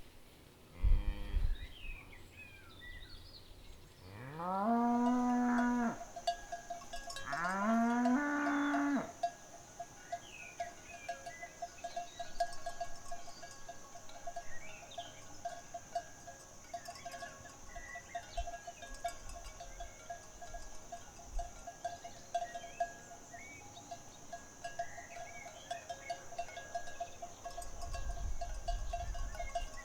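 Cattle mooing: two long moos, rising then holding, about four and seven seconds in, after a short loud low thump about a second in. From then on a cowbell rings steadily with a wavering, pulsing tone, over a steady high-pitched buzz.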